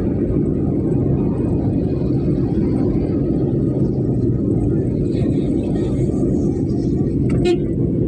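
Steady low rumble, with one brief sharp click near the end.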